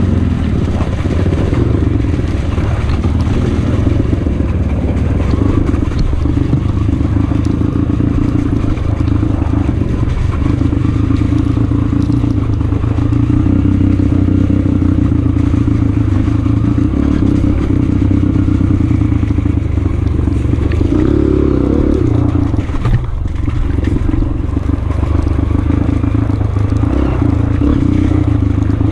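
Honda CRF230F's air-cooled single-cylinder four-stroke engine running steadily on a trail ride, its note rising and falling a little with the throttle. There is a brief dip in level about three-quarters of the way through.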